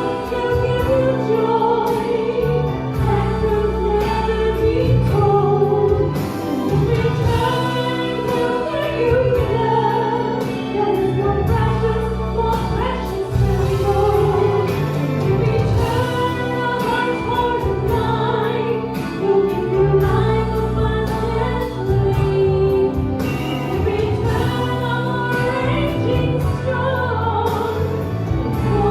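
Gospel music with a choir singing over a steady instrumental backing.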